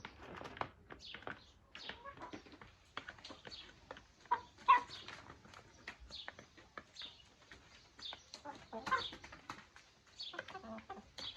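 Chickens clucking and giving short high calls while pecking at chopped greens, with many small sharp taps. The loudest sharp sound comes a little before the middle.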